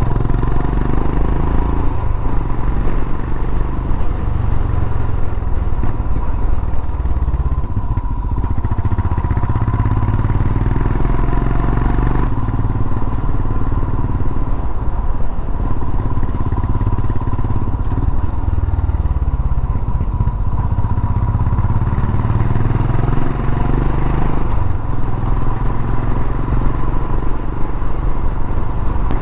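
Royal Enfield Himalayan motorcycle's single-cylinder engine running steadily while riding along.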